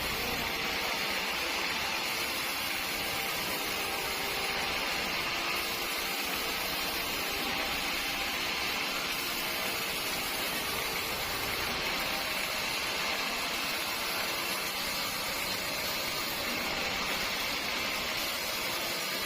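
Steady machinery noise running without change, its hiss strongest in the upper-middle range with a faint even hum.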